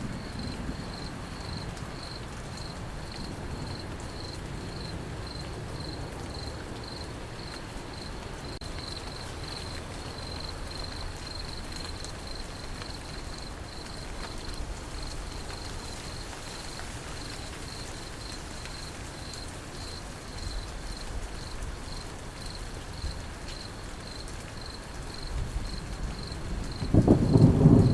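Crickets chirping in a steady, evenly pulsed high trill over the soft hiss and low rumble of rain. Near the end a loud, low thunder rumble swells up.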